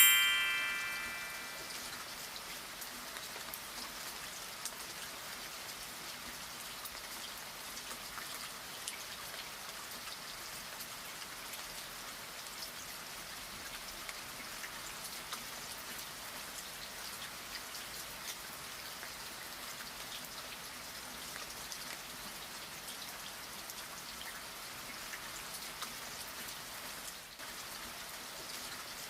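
Steady rain pattering. At the start a loud ringing chime fades out over about two seconds.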